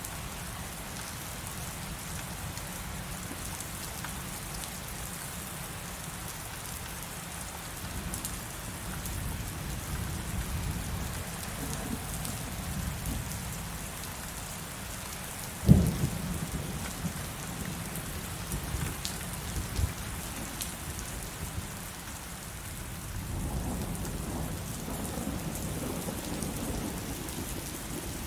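Heavy rain falling steadily, with a sharp thunderclap about halfway through followed by rolling rumbles of thunder. More low thunder rumbles in near the end.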